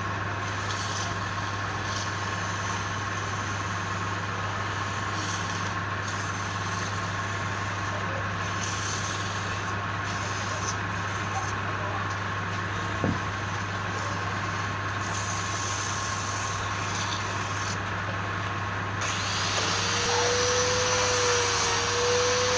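Woodturning lathe running with a steady motor hum and a thin steady tone, with a single sharp knock about halfway through. Near the end a louder, higher-pitched noise and a new steady tone join in.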